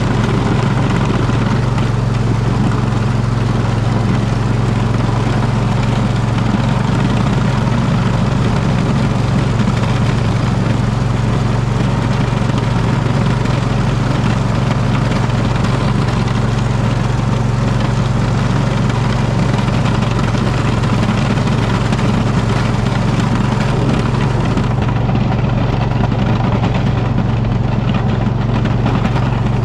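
Poulan riding mower's engine running steadily under load while it plows snow.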